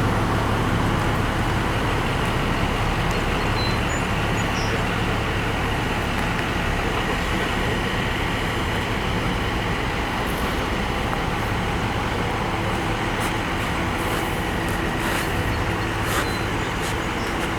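Heavy truck engine running steadily: a low, even hum under a constant hiss, with no change in speed.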